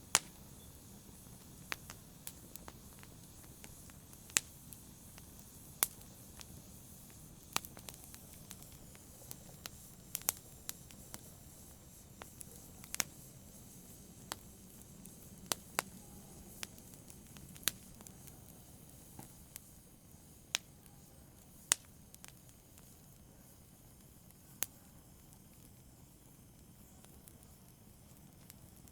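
Wood fire in a fireplace crackling: scattered sharp pops and snaps over a soft low rumble of flame, thinning out near the end.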